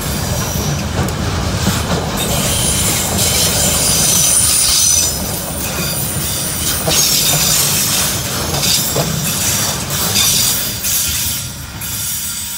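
Freight train's container flat wagons rolling past: a steady rumble of wheels on rail with high wheel squeal and clicks over rail joints. The sound fades about eleven seconds in as the last wagon goes by.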